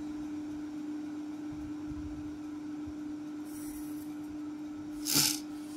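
Steady low electrical-sounding hum under quiet room noise. A faint scratch of a pencil marking paper comes about three and a half seconds in, and a short rush of noise comes near the end.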